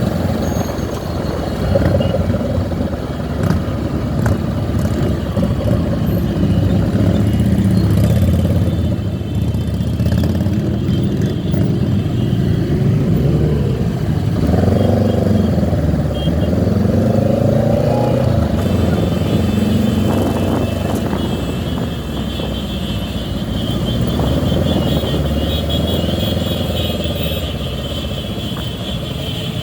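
Motorcycle engines running in a large group ride, a steady low engine sound with engine pitch rising and falling a few times around the middle.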